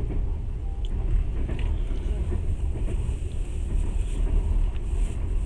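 Passenger train running: a steady low rumble of the carriage and its wheels on the rails, heard from inside the car.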